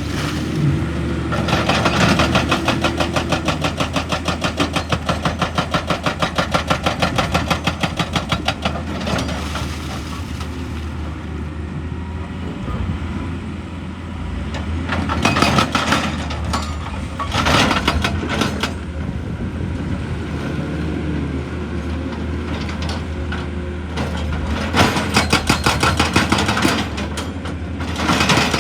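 Excavator-mounted hydraulic breaker hammering rock in rapid, evenly spaced blows, in a long burst, two short bursts and another long burst near the end, over the excavator's steady diesel engine.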